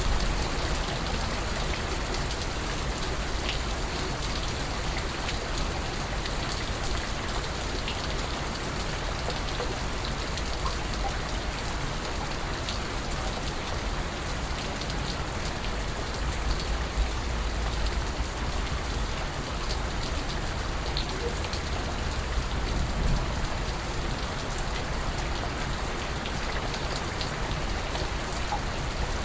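Steady rain falling on surfaces, with scattered individual drips standing out from the even patter.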